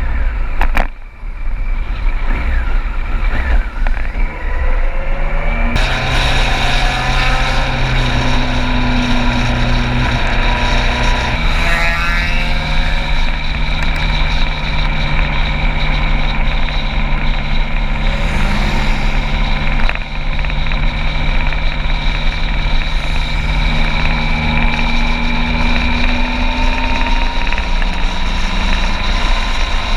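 Motorcycle engine running steadily while riding, its note stepping to a new pitch about six seconds and again about eleven seconds in.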